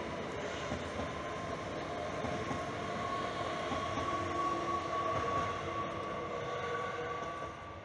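Electric multiple-unit passenger train passing, with a steady rumble and a thin whine that rises slightly in pitch. The sound fades as the train moves away near the end.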